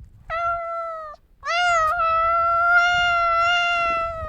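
Cat meowing: a short meow, then a long drawn-out one held at a nearly steady pitch.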